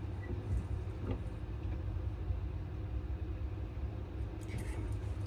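Steady low mechanical hum, with a faint tick about a second in.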